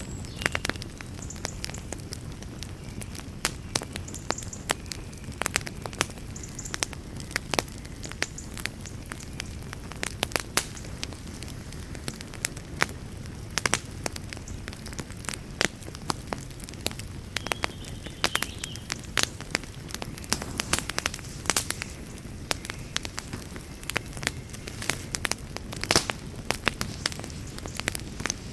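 Wood campfire crackling, with irregular sharp pops and snaps coming several times a second over a steady low rush.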